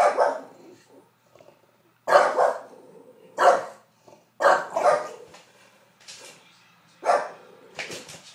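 Dogs barking in loud, separate barks every second or two, a pair close together near the end: an English bulldog agitated by a hair dryer, with a second dog joining in.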